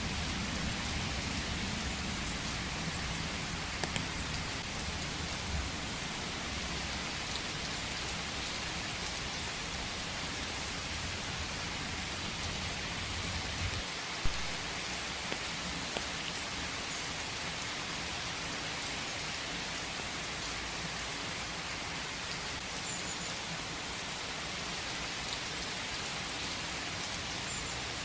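Steady rain falling in a forest, an even hiss with scattered louder drop hits, one sharp drop about halfway. A low rumble sits under it in the first half and drops away about halfway.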